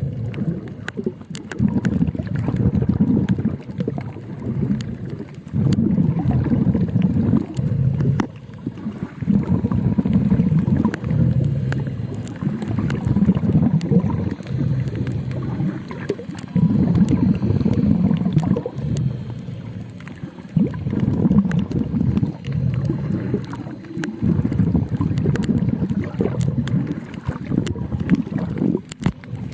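Underwater sound: low rumbling surges of exhaled breath bubbles every two to four seconds, with many scattered sharp clicks throughout.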